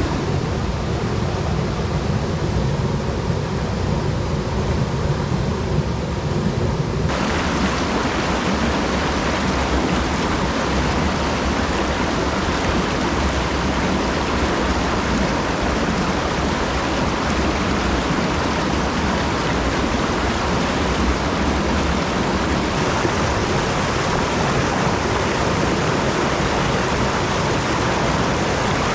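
Steady rushing of a mountain stream's flowing water, changing abruptly in tone about seven seconds in and again near the end.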